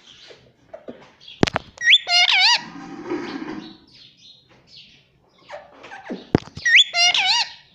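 Indian ringneck parrot calling twice: each call starts with a sharp click, then a quick rising whistle and a loud warbling call that wavers up and down in pitch.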